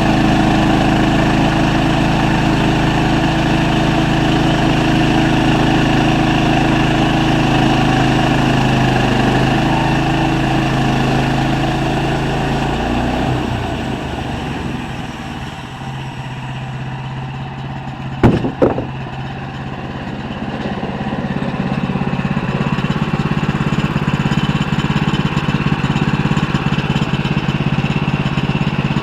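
Sawmill engine running steadily. Nearly halfway through its note falls away and the sound thins. Two sharp knocks come about two-thirds of the way in, then a steady running sound builds back up.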